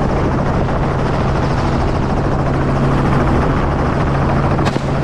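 Helicopter running steadily overhead: a dense, constant rotor and engine noise with a low hum underneath. A single sharp crack sounds near the end.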